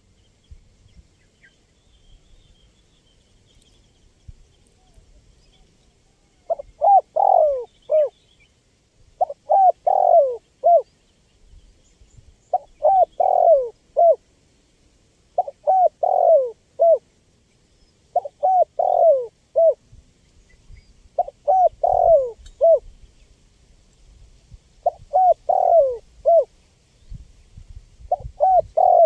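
Spotted dove cooing: a phrase of several short coos repeated about every three seconds, starting about six seconds in.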